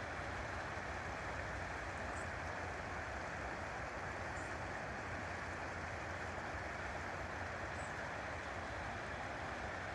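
River water flowing, a steady, even rush. A few faint, short high chirps sound above it.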